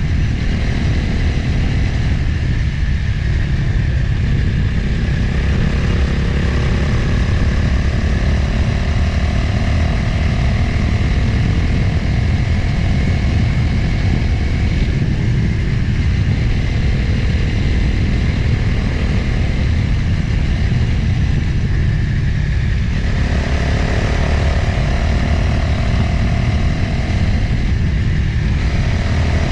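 Motorcycle engine running steadily while riding, under heavy wind rumble on the onboard microphone; the engine note changes about three-quarters of the way through.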